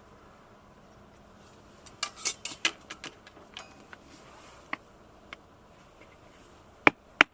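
Firewood being chopped: light clicks and knocks of handling about two seconds in, then two loud, sharp chopping strikes near the end.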